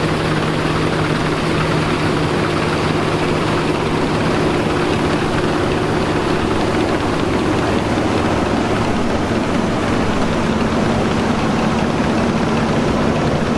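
Engine of vintage harvest machinery running steadily under a heavy rushing noise. Its hum drops out about halfway through and a higher hum takes over.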